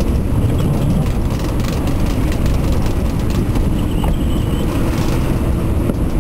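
Loud, steady rumble of strong wind buffeting the microphone on a yacht sailing in high wind.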